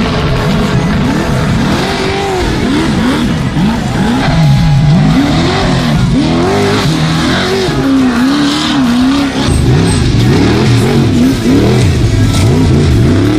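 Trophy truck race engines revving hard up and down again and again, several rises and falls overlapping, with background music underneath.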